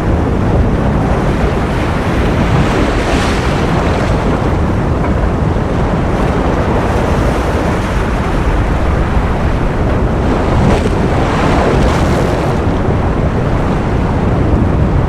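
Continuous ocean surf noise, a steady wash heavy in the low end, swelling slightly about three seconds in and again around ten to twelve seconds in.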